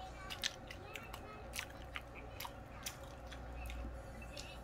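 A person chewing and biting food, with irregular sharp wet clicks and crunches from the mouth.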